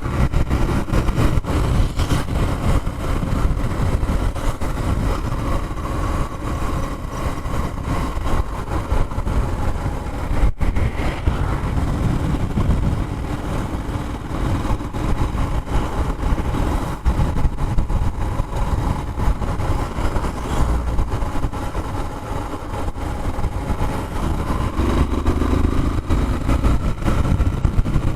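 Yamaha Fazer 150 motorcycle's single-cylinder engine running while riding, under a steady low rumble of wind and road noise.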